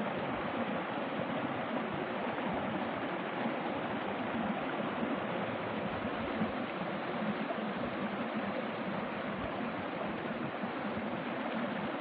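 Water flowing steadily, an even, unbroken noise.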